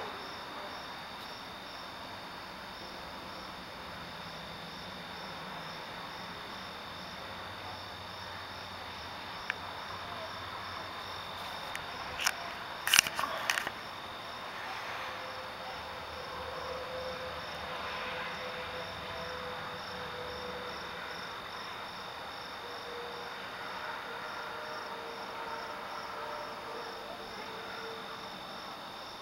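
Crickets chirping in a steady night chorus, a high, evenly pulsing trill. A few sharp clicks come about halfway through.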